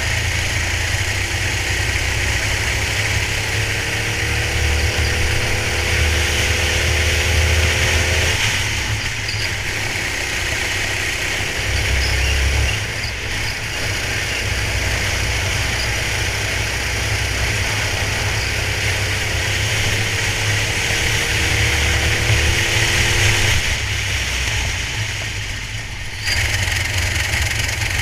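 Racing kart engine heard from onboard, climbing steadily in pitch as it accelerates twice, each time dropping away abruptly as the throttle is lifted. A steady rush of wind noise runs underneath.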